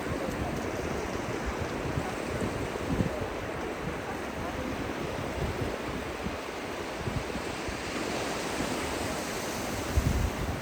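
Ocean surf washing steadily onto the beach, with wind gusting on the microphone a couple of times.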